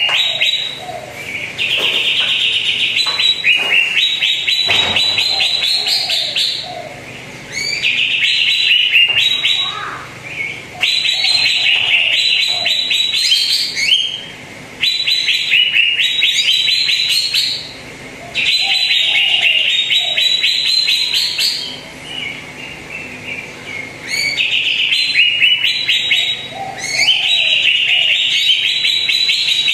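Greater green leafbird (cucak ijo) song played as a lure: repeated high-pitched phrases of rapid trilled notes, each two to three seconds long, with short pauses between them.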